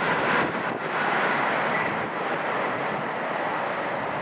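A train passing through the station at speed: a loud, steady rushing noise that slowly fades.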